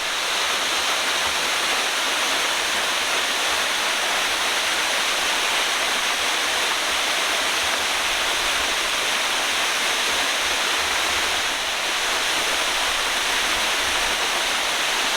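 Waterfall pouring steadily: a constant, loud rush of falling water.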